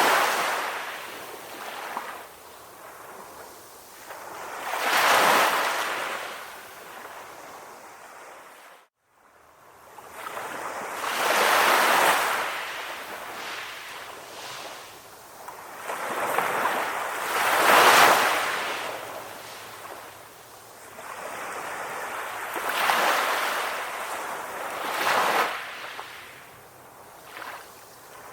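Sea waves breaking and washing on a beach, each surge swelling and fading about every five to six seconds. The sound cuts out briefly to near silence about nine seconds in.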